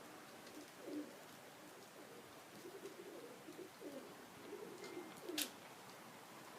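Domestic pigeons cooing softly in repeated low calls, with one sharp click about five seconds in.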